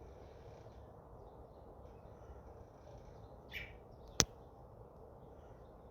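Faint, scattered bird chirps over a steady low outdoor background. About three and a half seconds in there is a brief scratchy sound, and just after it a single sharp click, the loudest sound here.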